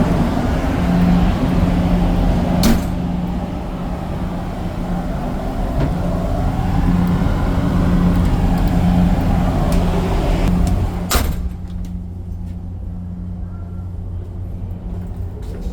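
A ship's engines droning steadily aboard a car ferry: a constant low hum over a rushing noise. There is a sharp knock about three seconds in and another about eleven seconds in, after which the hiss drops away and only the low hum is left.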